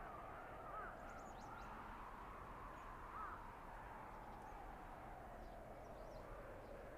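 Winter forest ambience: a steady rush of blizzard wind, with a few short bird calls about a second in and again near three seconds, and faint high chirps.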